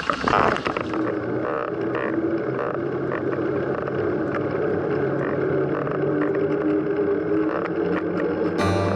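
A steady motor hum with a few faint knocks. Plucked-string music starts near the end.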